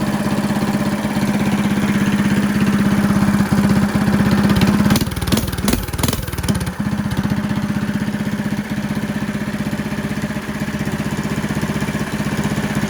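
Single-cylinder go-kart engine running loud through a large aftermarket exhaust, with fast, even firing pulses and a short spell of sharp crackles about five to six seconds in. It is running roughly on a new setup that still needs its idle adjusted.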